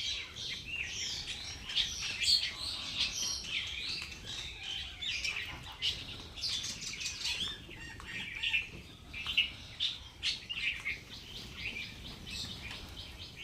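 Birds chirping: many short, high calls overlapping without a break.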